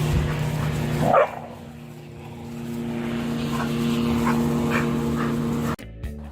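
A dog barking once loudly, then giving a few short, fainter barks, over a steady motor hum; the sound cuts off just before the end.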